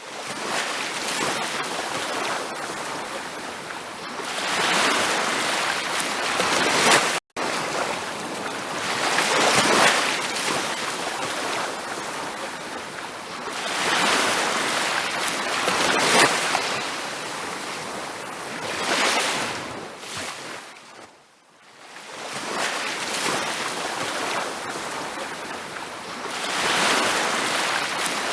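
Ocean surf breaking and washing on a beach, swelling and ebbing every few seconds. The sound drops out for a split second about seven seconds in.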